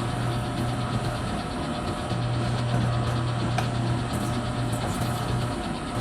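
A milling machine running steadily while an end mill drills a hole through solid bar stock. Its low hum drops out briefly twice, and there is one short click about halfway through.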